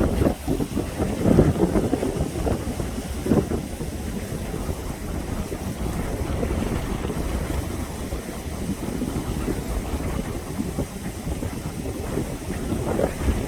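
Wind buffeting the microphone, a low rumbling noise with stronger gusts about a second and a half in and again around three seconds.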